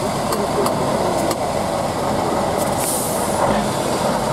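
Competition trial truck's engine running steadily under load, a loud, dense drone.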